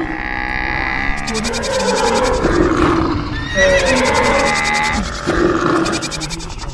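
Assorted animal calls layered over background music, with short gliding calls a little past the middle.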